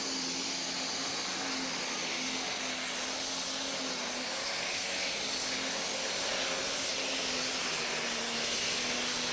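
Gas-turbine-powered pulling tractor running under load: a steady turbine whine over a dense rushing hiss, growing slightly louder.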